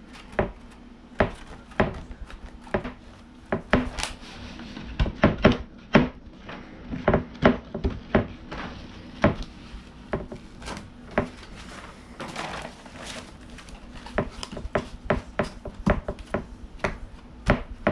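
Irregular knocks and taps on a wooden skateboard deck, with short stretches of rubbing, as grip tape is pressed and smoothed down onto it.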